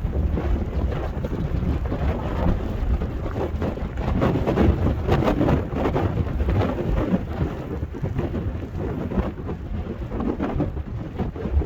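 Strong blizzard wind buffeting the microphone: a heavy, uneven low rumble with crackling throughout.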